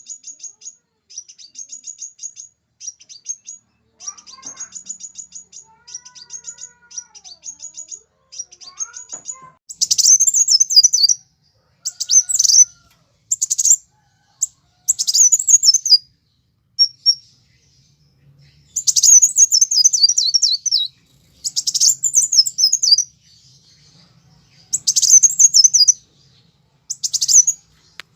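Sunbirds singing in high, thin notes. First comes a fast, even trill, then from about ten seconds in loud, rapid, sweeping song phrases of a second or two each, with short pauses between them.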